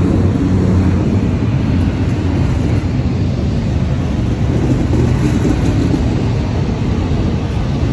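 Double-stack container freight train rolling past close by: a steady, loud rumble of the well cars' wheels on the rails.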